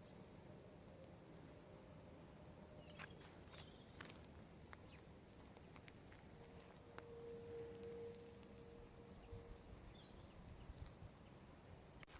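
Near silence: faint outdoor quiet with scattered distant high bird chirps and a few small clicks.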